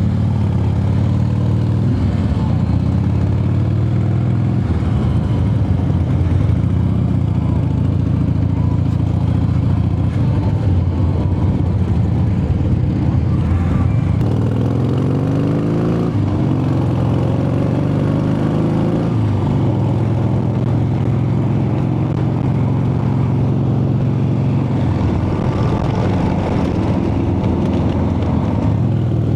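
Motorcycle engine running steadily under way, its pitch climbing as it accelerates about halfway through, then settling again.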